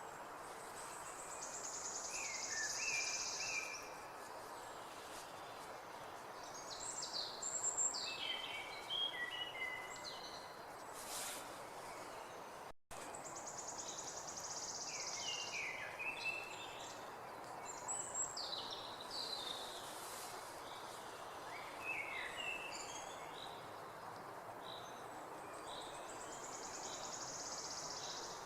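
Songbirds calling over a steady background hiss: a high, buzzy trill about three seconds long comes three times, with shorter falling chirps in between. The sound cuts out for an instant near the middle.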